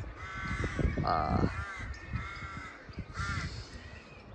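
Crows cawing, about four harsh calls spread across a few seconds, the second one the loudest.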